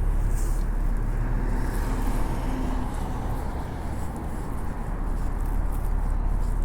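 Road traffic on a city street: a steady low rumble of vehicles going by.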